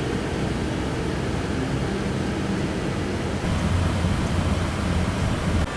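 Steady road and engine noise inside a moving car, a low hum under a constant rushing hiss.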